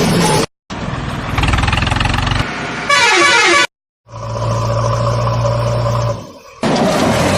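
Edited truck sound effects in short clips broken by abrupt cuts: engine noise, then a steady truck horn blast of about two seconds a little past halfway.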